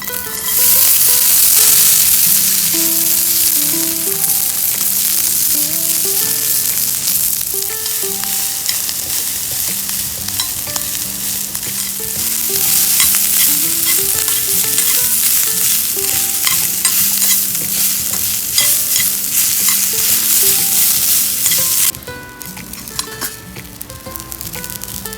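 Food frying in a pan: a loud, dense sizzling hiss with scattered small pops, which cuts off abruptly about 22 seconds in.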